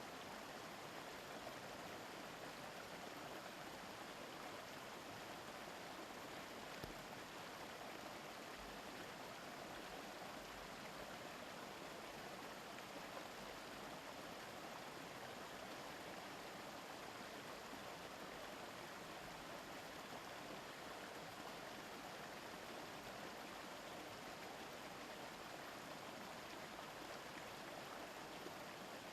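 Mountain stream murmuring steadily over rocks.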